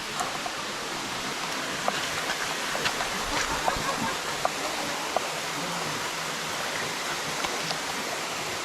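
Waterfall running with a steady rush of water, a few faint ticks scattered through it.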